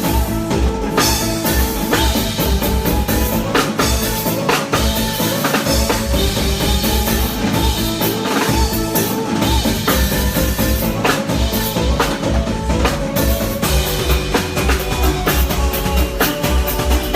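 Live band playing an instrumental passage at full volume: a drum kit keeps a steady beat with kick and snare hits over a heavy pulsing bass line and sustained chords.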